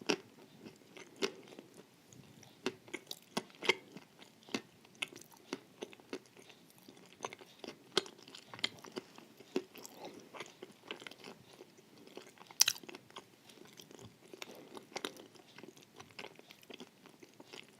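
A person chewing a crunchy wafer dessert: irregular crisp crunches and mouth sounds, with one sharper crunch about two-thirds of the way through.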